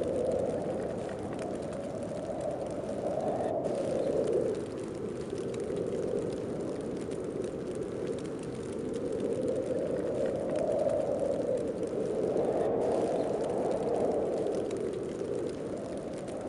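Snowstorm wind blowing steadily, swelling and easing in slow gusts every few seconds.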